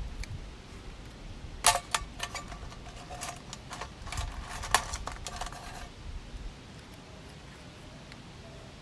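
A run of light clicks and clinks, some with a short metallic ring, from a little under two seconds in until about six seconds in, as small hard objects are handled.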